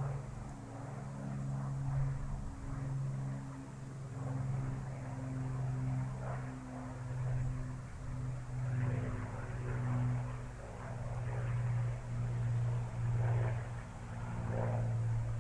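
Avro Lancaster's four Rolls-Royce Merlin V12 engines droning as the bomber flies by: a low, throbbing propeller drone that swells and fades, with bursts of rushing noise over it.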